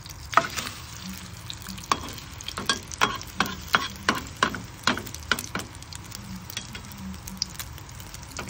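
Ham and egg sizzling steadily in hot oil in a rectangular frying pan. Through the first half, a spatula scrapes and taps against the pan a dozen or so times at irregular intervals.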